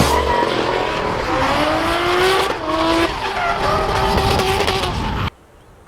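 A car drifting, its tyres squealing in long, slowly rising tones over the noise of the car, cutting off suddenly near the end.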